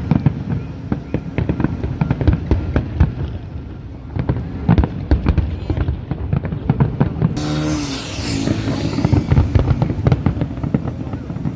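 Fireworks bursting in quick succession, many sharp bangs close together. About seven seconds in, a dense hiss joins them for a couple of seconds.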